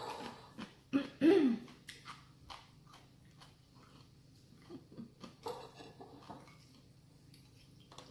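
Close-up eating sounds: chewing with small clicks and scrapes from utensils and dishes. A short voiced sound comes about a second in, and the rest is softer, scattered mouth and utensil noises.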